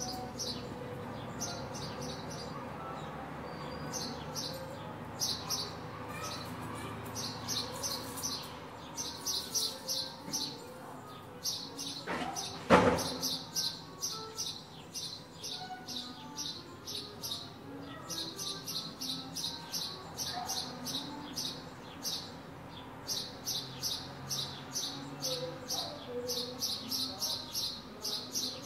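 A bird chirping in long runs of short, high chirps, about four a second. One loud bang cuts in about halfway through, over faint street background.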